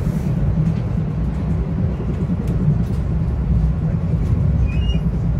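Steady low rumble of a Metro-North Hudson Line commuter train running along the track, heard from inside the passenger car, with a brief faint high squeak near the end.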